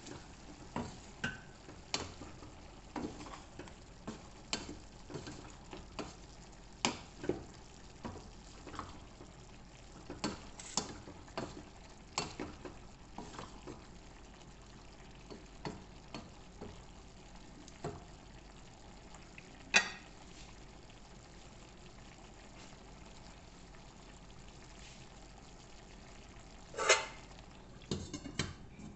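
Cooking utensil stirring food in a pan: irregular scrapes and clinks over a faint steady sizzle of frying, with two louder clanks, about 20 and 27 seconds in.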